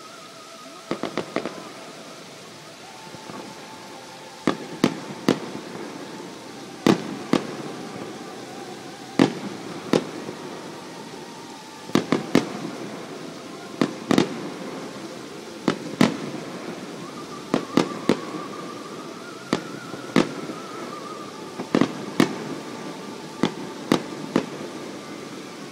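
Fireworks display: aerial shells bursting in a string of sharp bangs, about one a second and often in quick pairs or threes, echoing around the valley.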